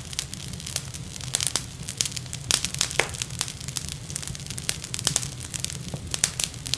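Wood fire crackling, with many sharp irregular pops over a low rumble.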